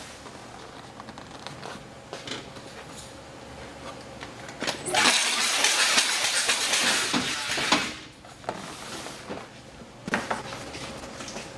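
MPT-21 stretch-film banding machine running as it bands a tray, with scattered clicks and knocks. About five seconds in, a loud rushing noise lasts about three seconds, then stops suddenly.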